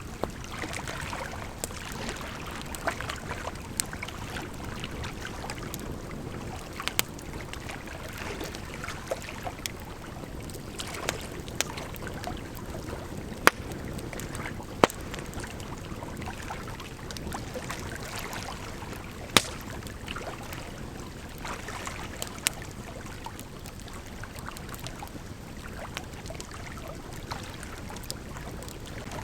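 Wood campfire crackling, with scattered sharp pops and a few loud snaps, over the steady rush of a gently flowing river.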